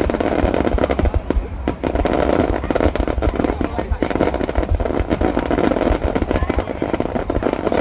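Aerial fireworks bursting in rapid succession: a dense, unbroken barrage of booms and crackles.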